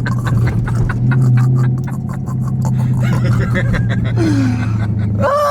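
Loud exhaust of a Dodge Scat Pack's 392 HEMI V8 running steadily just after being revved, then cutting off abruptly near the end.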